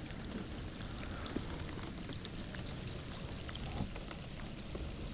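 Steady rain falling on the water, an even hiss dotted with the small ticks of single drops.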